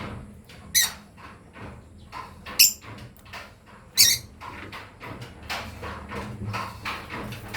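Lovebirds chirping in quick short notes, with three loud, shrill shrieks about one, two and a half and four seconds in.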